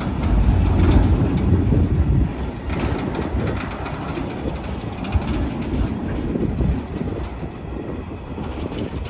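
Part-loaded grain train rolling past, its wagons' steel wheels running and clattering on the rails. The rumble is heaviest for the first two seconds, then settles to a steady run with occasional clicks.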